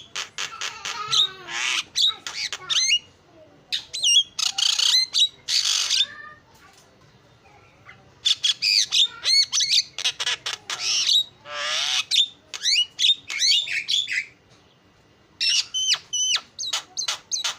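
Javan myna (jalak kebo) singing: fast runs of sliding whistles mixed with harsh squawks and chatter, broken by two pauses of a second or so.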